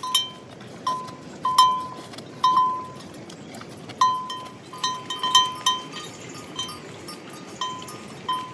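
A small metal bell clanking over and over at an uneven pace, every ring at the same clear pitch and dying away quickly, over a steady hiss of rain.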